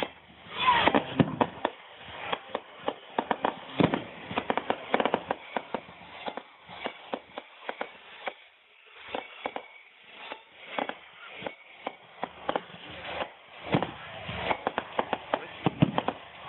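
Fireworks display going off: a dense, irregular run of sharp pops, cracks and bangs, some much louder than others, thinning out briefly about halfway through.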